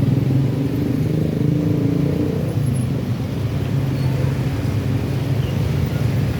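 Engines running with a steady low hum.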